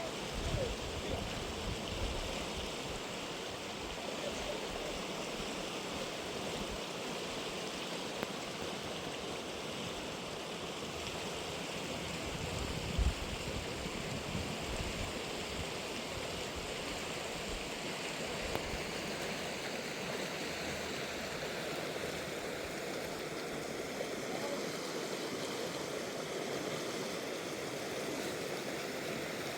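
A wild river rushing steadily, with a short low knock about 13 seconds in.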